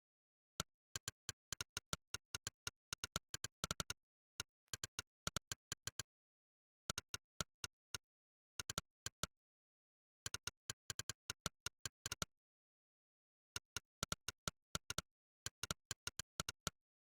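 Monkeytype's synthetic "click" keystroke sound, one sharp click per key pressed, in uneven bursts of fast typing broken by pauses of about a second, with dead silence between the clicks.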